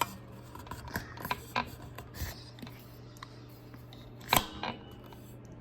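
Scattered clicks and knocks of small hard parts being handled, with the loudest knock about four seconds in. A steady low hum runs underneath.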